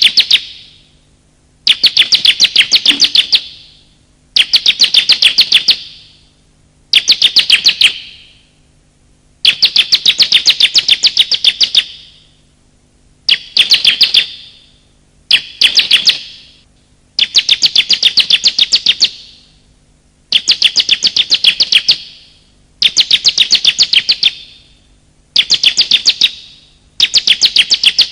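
Bar-winged prinia (ciblek) calling: repeated bursts of a rapid string of sharp, high chirping notes, each burst lasting one to two seconds with short pauses between, played as a bird-lure recording.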